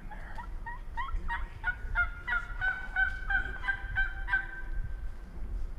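A run of about a dozen wild turkey hen yelps, short pitched notes at about three a second that stop about four and a half seconds in.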